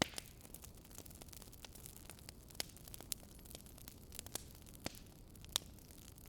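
Wood fire crackling: irregular sharp pops and snaps over a low steady rumble, with the loudest pop right at the start.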